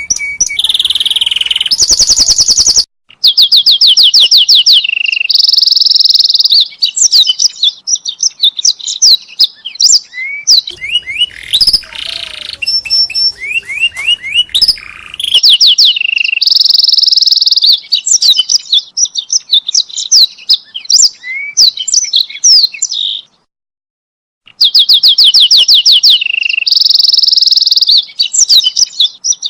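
Domestic canary singing: fast trills of rapidly repeated high notes, alternating with rolls and short whistled phrases. The song breaks off for about a second and a half a little past the middle.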